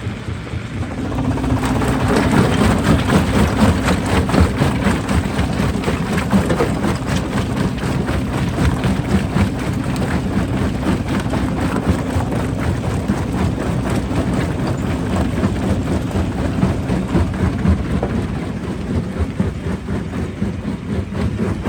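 Heavy rock-crushing machinery running: a steady diesel-like hum under dense, irregular clattering and crunching of rock, getting louder about a second and a half in.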